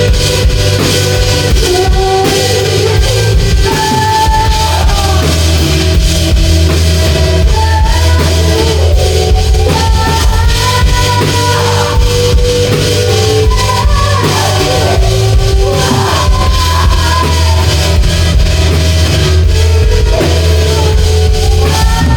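Rock band playing loudly: drum kit and electric guitar over a heavy bass end, with a melodic line of held, bending notes.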